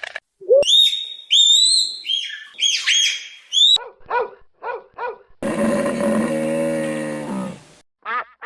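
A run of animal calls: a puppy's high-pitched yelps, rising and falling, over the first three seconds or so, then a few short lower calls, then one long low call from a farm animal lasting a couple of seconds.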